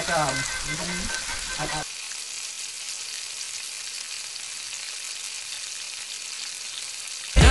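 Breaded strips shallow-frying in hot oil in a pan: a steady sizzle. A voice is heard over the first couple of seconds.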